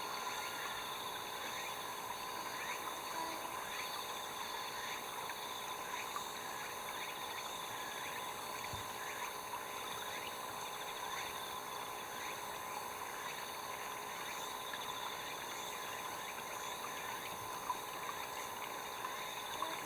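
Steady chorus of frogs and insects: many short falling chirps over a continuous drone.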